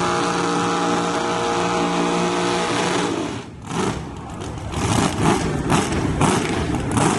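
A drag-racing S10 pickup's engine revs up and holds a steady high rpm for about three seconds, then cuts off sharply. Irregular pops and bangs follow near the end.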